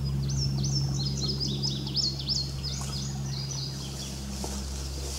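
A small bird singing a fast run of high, repeated hooked chirps that lasts about three seconds, then stops.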